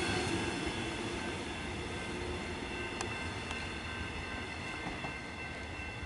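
Three-car suburban electric train pulling away and fading, with a steady high whine and rail noise, and a single sharp click from the track about three seconds in.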